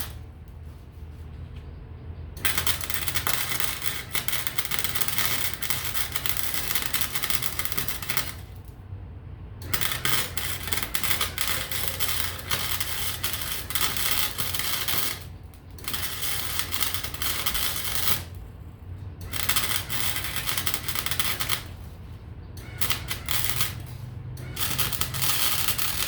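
Electric arc welding crackling in about six bursts of one to six seconds each, with short pauses between, as beads are laid on a steel sculpture.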